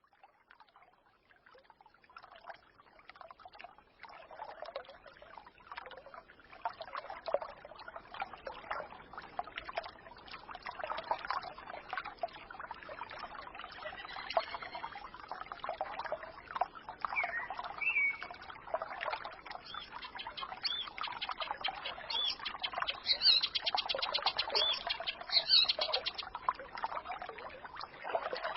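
A small forest stream babbling and gurgling, fading in from silence over the first few seconds, with songbirds chirping above it and a quick run of repeated high notes about three quarters of the way through.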